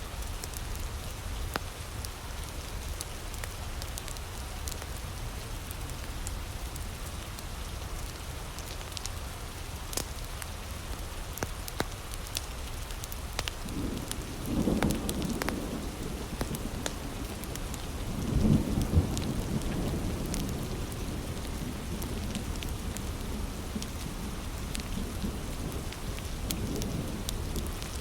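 Steady heavy rain, with two low rolls of thunder about halfway through, the second longer and louder, and scattered sharp pops.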